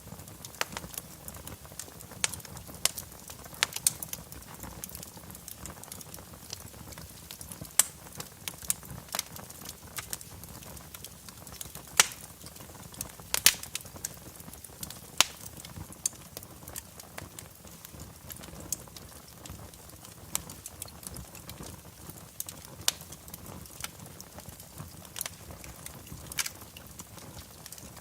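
Wood fire in a fireplace crackling: irregular sharp pops and snaps over a low steady hiss of burning logs.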